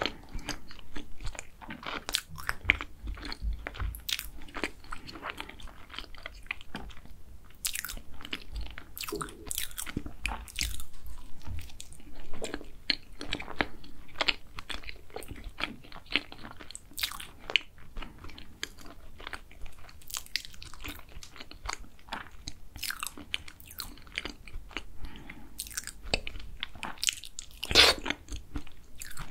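Close-miked chewing and biting of a blueberry cheese tart, its pastry crust crunching in many small crisp clicks. One louder crunch near the end.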